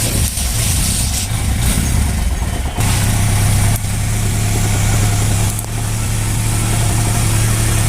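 Bajaj motorcycle single-cylinder engine running at idle, its note settling steadier about three seconds in. It is still making the timing-chain noise of a tensioner not yet tight enough.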